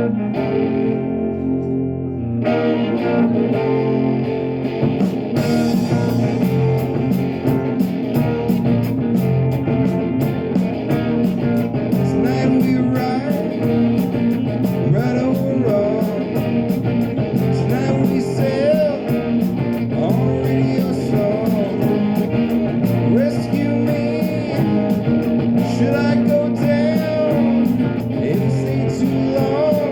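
Live rock band playing a song: electric guitar over bass and drums keeping a steady beat.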